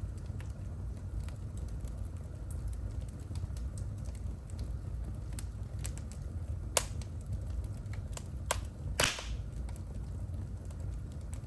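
Wood fire burning in a fireplace: a steady low rumble of flames with scattered sharp crackles and pops, the loudest about seven seconds in and a short burst of crackling near nine seconds.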